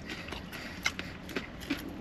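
Person eating: a few irregular, sharp, wet clicks and smacks, spread unevenly through the moment.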